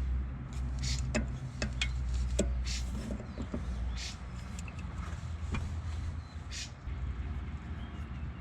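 Brake bleeding on the front right wheel: scattered sharp clicks and several short hisses over a steady low hum.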